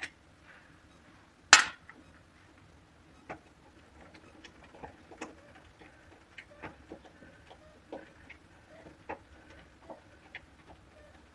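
Scattered light clicks and taps of tools and parts being handled, with one sharp knock about a second and a half in.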